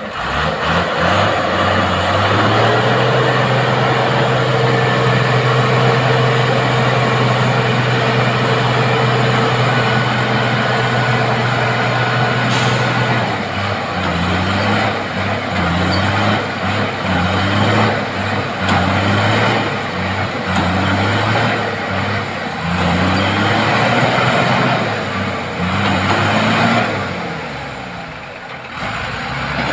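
Heavy truck engine held at steady high revs, then revved up again and again in short pulses about once a second and a half, easing off near the end. A brief hiss of air, typical of an air brake, comes in about midway.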